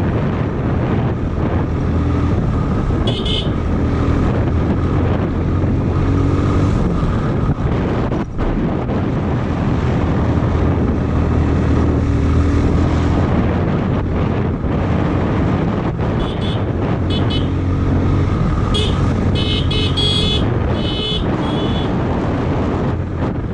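Motorcycle engine running steadily under way with wind noise, and short horn toots: once about three seconds in, then several in quick succession in the second half.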